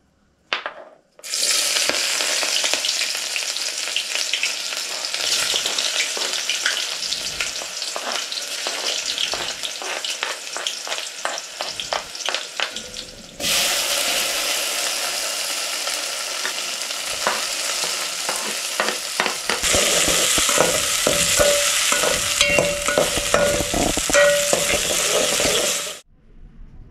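Chopped spring onions and tomatoes frying in a metal cooking pot with a steady sizzle. A metal spoon stirs them, clinking and scraping against the pot. The sizzle cuts out briefly about halfway and comes back louder.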